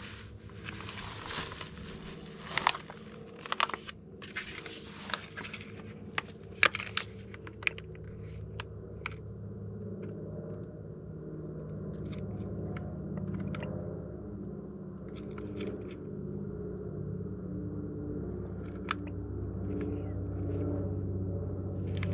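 Clicks, scrapes and crinkling of plastic gear-oil containers being handled and squeezed, most in the first half, while a trailer's wheel hub is filled with hub oil and 75W90 gear lube because it had nearly run dry. Under it runs a steady low mechanical hum that grows louder in the second half.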